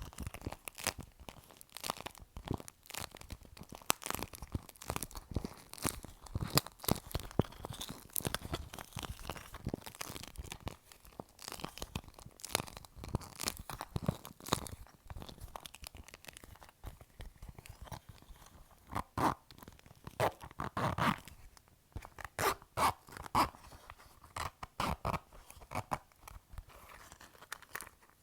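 Fingertips tapping and scratching on a clear plastic pouch, a dense, irregular run of sharp crackling taps with crinkles of the plastic, a popping sound like popcorn being made.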